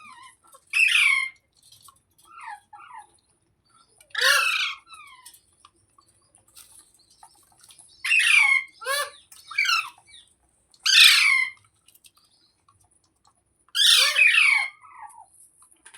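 Pet ringneck parrot (rose-ringed parakeet) squawking: about half a dozen loud, harsh calls a few seconds apart, with a few softer, shorter calls between them.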